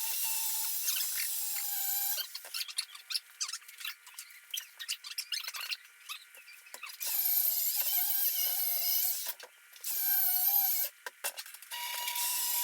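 A grinder grinding down the rough edges of a plasma-cut metal plate. The motor's whine wavers under load. Long steady passes are broken, from about two to seven seconds in, by a run of short, choppy touches.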